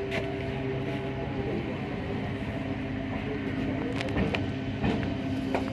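Passenger train running, a steady low rumble and hum with a few sharp clicks and knocks in the second half.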